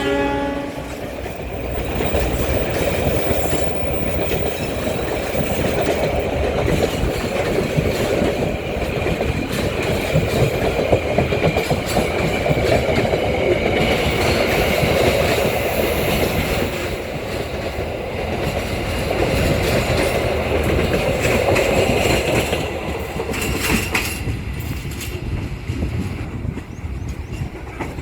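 Indonesian intercity passenger train running past, a steady rumble of locomotive and carriages with the clatter of wheels over the rail joints, easing off somewhat near the end.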